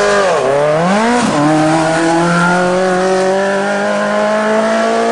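Vintage racing motorcycle engine under hard acceleration. Its note drops sharply and climbs back twice in the first second and a half as it shifts up, then holds a steady high note.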